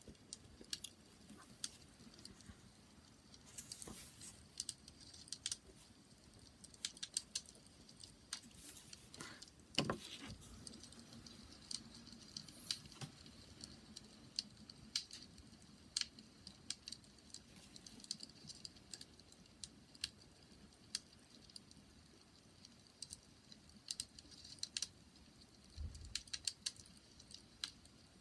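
Wood fire crackling: irregular sharp pops and snaps over a faint low hiss, with one louder pop about ten seconds in and a soft low thump near the end.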